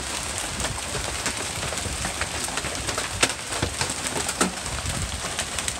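Very large hailstones pelting down: a steady din of ice striking the ground and surfaces, with many sharp hits landing at irregular moments.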